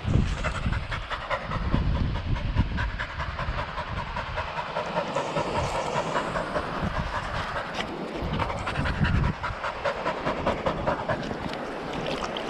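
A dog panting, out of breath from running and fetching.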